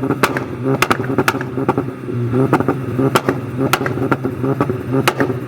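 Car engine running, with sharp cracks about every half second.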